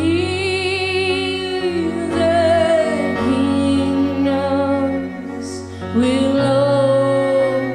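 Slow worship music: a woman sings long, held notes with vibrato over a steady, sustained low accompaniment, swelling at the start and again about six seconds in.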